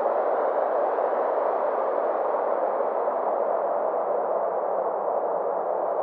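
Synthesized 'space' ambient drone: a steady band of filtered noise, centred low-mid, whose brightness swells and fades slowly over a few seconds.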